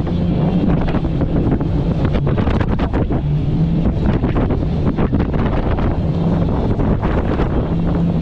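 Heavy wind buffeting the microphone over the steady running of a fast inflatable Thundercat boat's outboard motor, with a low engine hum that comes and goes under many irregular thumps and gusts.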